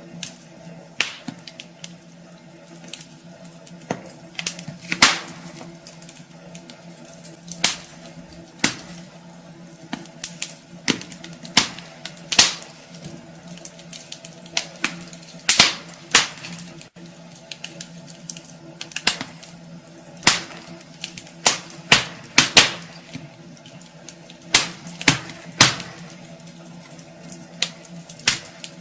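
Wood fire burning in a fireplace, crackling with irregular sharp pops and snaps, some loud and some faint, over a faint steady hum.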